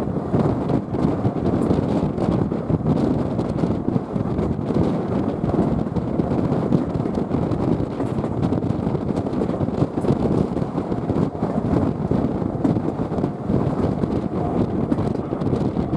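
A steam-hauled train's carriages running along the line, heard from on board: a steady rumble of wheels on the track mixed with wind buffeting the microphone.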